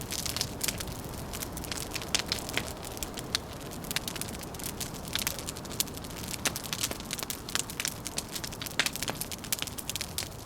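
Wood fire crackling, with irregular sharp pops and snaps several times a second over a steady low rushing noise.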